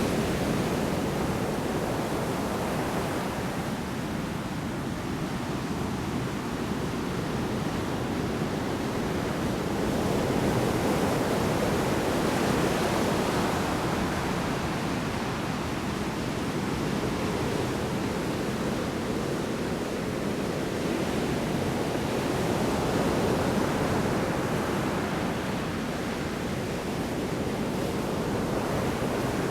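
Heavy storm surf: large waves breaking on the shore in a steady rush of water that slowly swells and eases every ten seconds or so.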